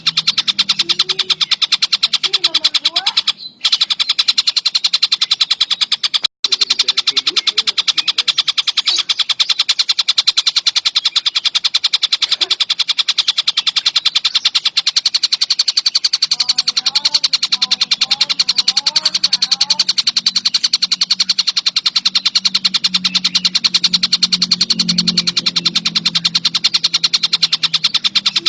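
Collared kingfisher (tengkek buto) calling in a continuous fast string of harsh, repeated notes, cut off briefly twice in the first seven seconds.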